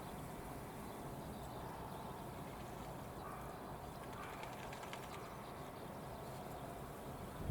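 Quiet outdoor ambience: a steady low rumble and hiss, with a few faint bird calls around the middle.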